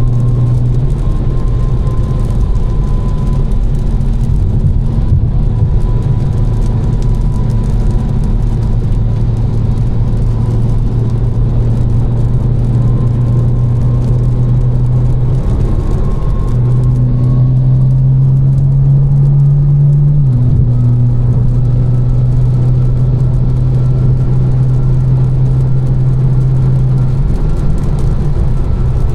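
Tuned BMW M4's twin-turbo straight-six with catless downpipes and an Fi exhaust, droning steadily at cruise. A little over halfway it rises slightly in pitch for a few seconds, then drops suddenly, as in a gear change, and settles back to a steady drone.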